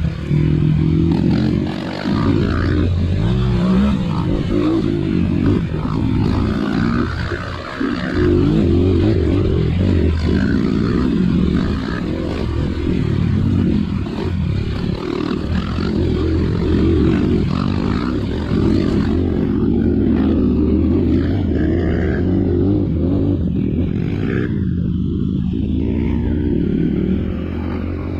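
Trail motorcycle engine running under load as the bike rides off-road, its note rising and falling with the throttle, with short dips in level about two and seven seconds in.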